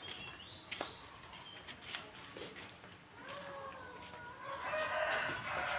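Birds calling: short high chirps in the first second, then a longer pitched call starting about three seconds in that grows louder and rougher toward the end.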